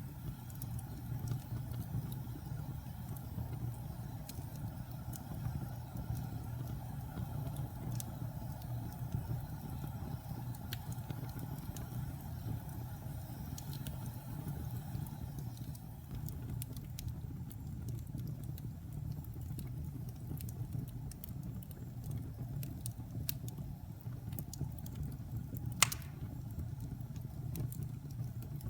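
Wood fire burning in a fireplace: a steady low rumble of flames with scattered small crackles and one louder pop near the end.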